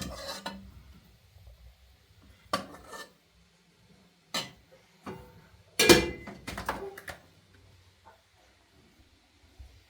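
Dishes and cutlery clattering in a few separate knocks and clinks, the loudest cluster about six seconds in.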